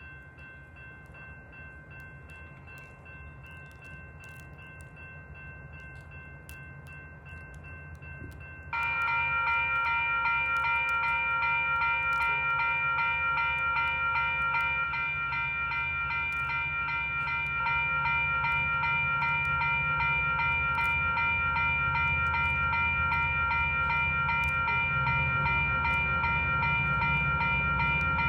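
Railroad grade-crossing warning bells ringing as a train comes in, with the train's low rumble building. A fainter set of bells rings first, then a much louder set starts suddenly about nine seconds in and keeps ringing.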